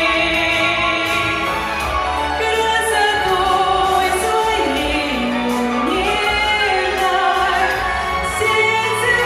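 A song performed on stage: a voice singing a melody with long held notes over instrumental accompaniment with a steady bass.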